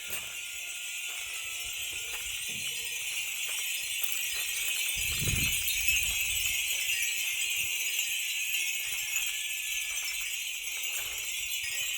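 Many Japanese wind chimes (fūrin) tinkling together in a dense, continuous ringing, with a brief low rumble about five seconds in.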